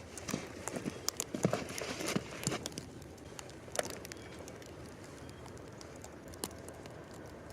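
Irregular knocks, snaps and crunches of someone moving about in snow and handling sticks and small trees. They come thick over the first couple of seconds, then only a few single clicks follow.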